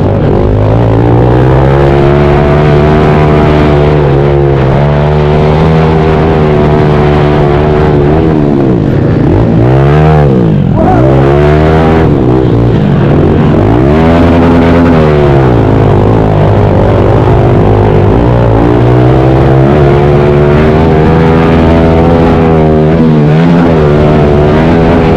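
Pit bike's small single-cylinder four-stroke engine running hard under race throttle. Its pitch holds on the straights and drops and climbs again several times as the rider shuts off and gets back on the gas, most sharply about ten seconds in.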